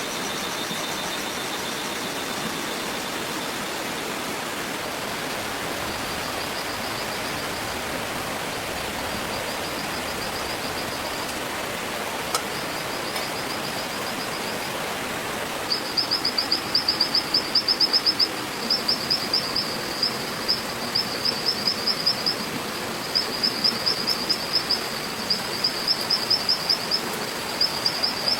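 Forest ambience: a steady hiss like running water or dense insect noise, with a high, rapid trilling call from a bird or insect. The trilling comes faintly at first and grows loud from about halfway through, repeating in short bursts.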